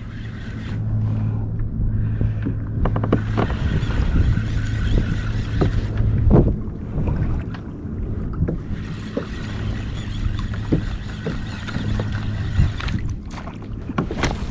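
Kayak on the ocean: water rushing and splashing against the hull under a steady low hum, with scattered short knocks, the loudest about six seconds in.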